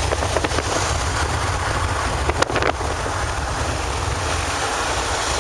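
Wind rushing in through an open car window and buffeting the microphone over the low rumble of a car driving, with a few sharp knocks about halfway through.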